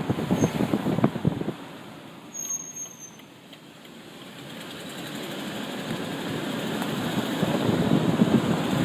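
2004 Dodge Durango's 5.7 Hemi V8 and road noise. The sound falls away over the first two seconds, is quietest a little past three seconds, then builds steadily again.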